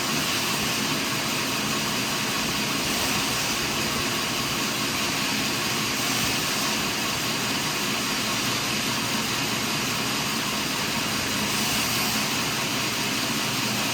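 Sawmill machinery running steadily, a continuous even engine-and-saw noise with no breaks.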